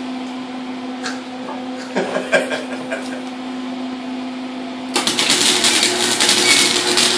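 A steady hum with a few faint clicks, then about five seconds in a welding arc strikes and crackles loudly and continuously while a turbo flange is welded.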